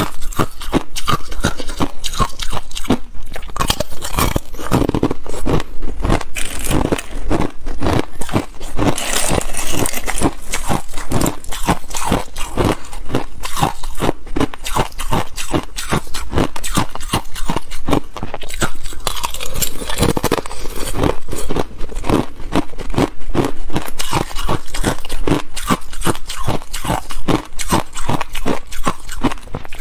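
Ice being bitten and chewed, with loud, rapid, closely spaced crunches several times a second.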